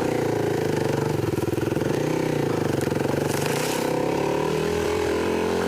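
Kawasaki KLX300 dirt bike's single-cylinder four-stroke engine running at trail-riding speed, its pitch wavering a little with the throttle. A brief hiss comes about three and a half seconds in.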